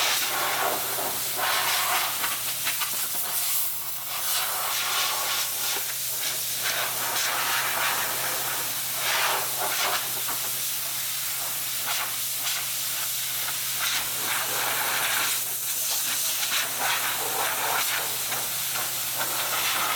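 Compressed-air paint spray gun hissing in uneven surges as primer surfacer is sprayed, over a steady low hum.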